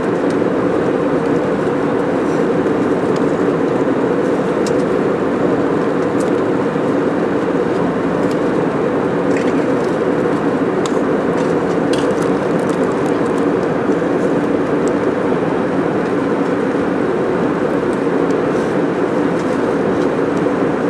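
Steady cabin noise of an airliner in flight: an even rush of engines and airflow with a low hum, with a few faint clicks here and there.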